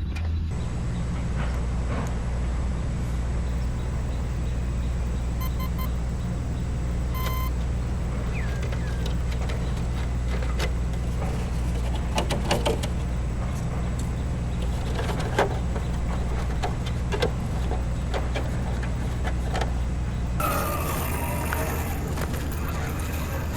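RC rock crawler's small electric motor and gearbox whirring steadily as the truck crawls, with scattered clicks and knocks from the chassis and tyres on terrain. The sound changes character near the end.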